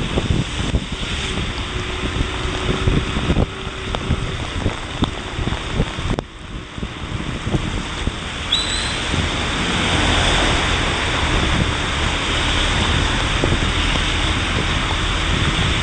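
Wind buffeting and rain noise on a motorcycle rider's microphone while riding through heavy rain. The buffeting is gusty at first and turns into a steadier, fuller rush from about ten seconds in.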